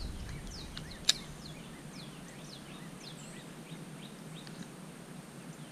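Small birds chirping, a scatter of short, quick downward-sliding high notes, with one sharp click about a second in.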